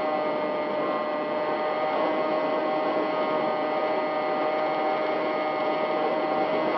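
Electric motor and propeller of an RC model plane running at a steady throttle: an even whine of several steady tones over a rushing hiss.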